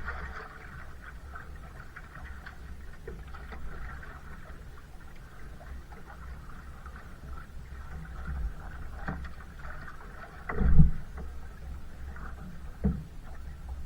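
Kayak being paddled, with water splashing and dripping over a steady low rumble. A loud thud comes about ten and a half seconds in, and a smaller knock near the end.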